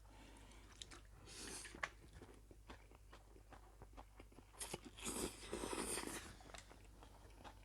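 Close-up sound of a person chewing and biting through a spicy wheat-vermicelli salad with chicken feet: wet mouth noises and small crunchy clicks. There is a louder, noisier stretch of eating about five seconds in.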